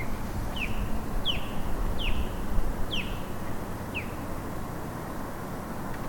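A bird calling: a series of about six short chirps, each sliding down in pitch, coming a little under a second apart and stopping about four seconds in, over a steady low rumble.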